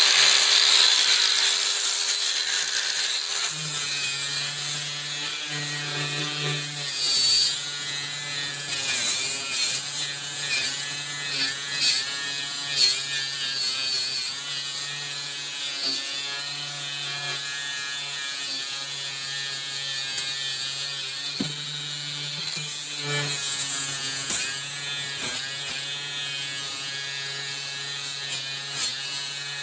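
Bauer brushless angle grinder running under load, sanding rust off metal. A steady motor hum sits under a harsh grinding noise that swells and eases as the disc is worked against the surface.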